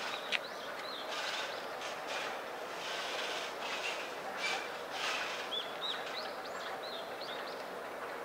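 Outdoor ambience: a steady background hiss with a few short, quick bird chirps, mostly in the second half.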